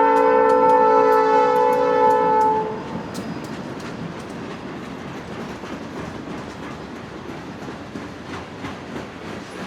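Diesel locomotive's multi-chime air horn sounding a steady chord, cutting off about two and a half seconds in. Then the train rolls by, its wheels clicking over rail joints.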